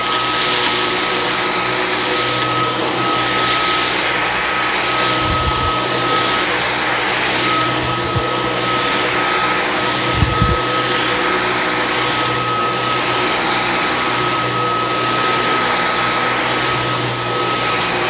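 Dyson V15s Detect cordless stick vacuum running in auto mode with the carpet head on carpet: a steady rush of air with a steady high whine. Two brief low thumps come about five and ten seconds in.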